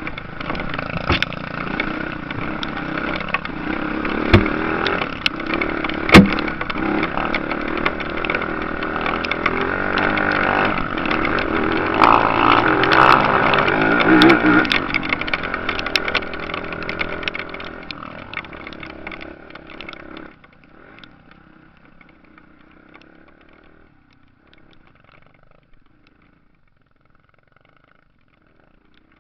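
Motocross motorcycle engines revving as the bikes pass, building to a peak and then dying away about two-thirds of the way through. Two sharp knocks stand out about four and six seconds in.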